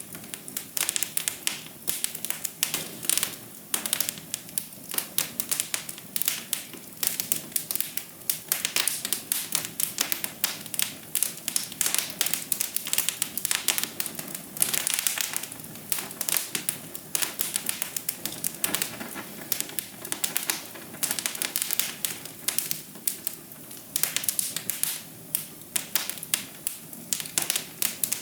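Wood fire crackling in a fireplace: a steady stream of irregular pops and snaps, several a second, over a soft hiss.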